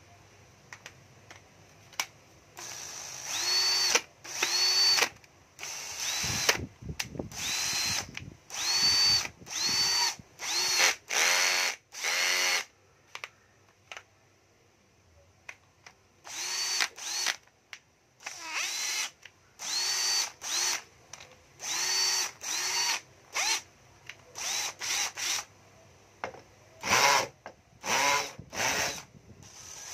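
Small cordless drill-driver's motor run in many short trigger pulses, each spinning up with a quick rising whine and then cut off. There is a pause of a few seconds in the middle before the pulses resume.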